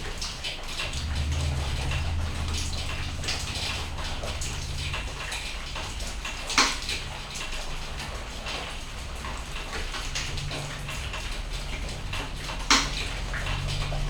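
Rain falling, with many small drop ticks over a steady hiss. Two loud sharp drop hits land about six and a half seconds in and near the end, over a low hum that fades and returns.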